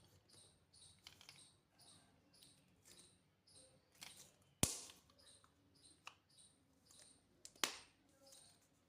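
Faint, quick, light scratching strokes, about two to three a second, like small hand work on a part. A sharp click comes about halfway through and another near the end.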